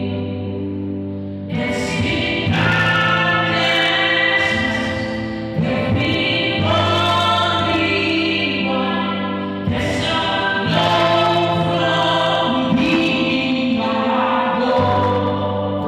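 Gospel song: a choir of voices singing over sustained low chords, with a new sung phrase starting about every four to five seconds.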